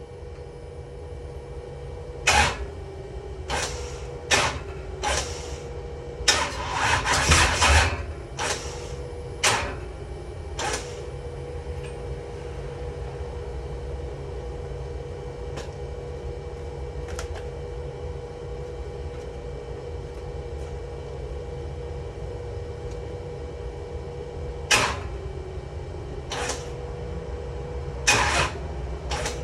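Scattered sharp clicks and clunks over a steady low hum with a faint even tone: a burst of them about seven seconds in, and a few more near the end.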